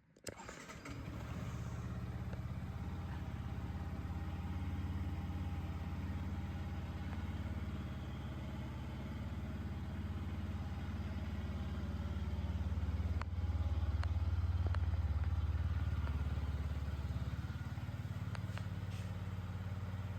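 Yamaha MT-125's single-cylinder four-stroke engine starting up right at the beginning, then idling steadily. It runs a little louder for a few seconds past the middle.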